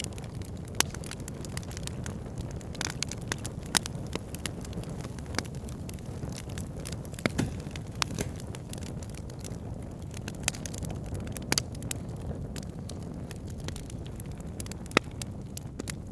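Wood fire burning in a fireplace: a steady low rush of the flames under irregular sharp crackles and pops from the burning wood.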